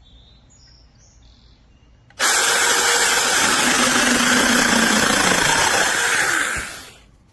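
TaskStar 8-inch cordless brushless mini chainsaw started at the trigger about two seconds in, running loud for about four seconds before winding down.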